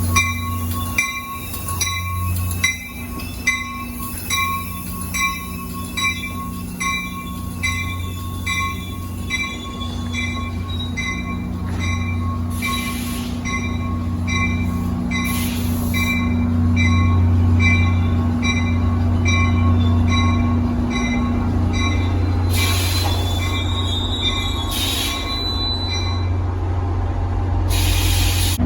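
Passing train with its locomotive bell ringing steadily, about two strokes a second, over the low hum of the locomotive. The bell fades out in the second half. A short high wheel squeal and a few brief hisses come near the end.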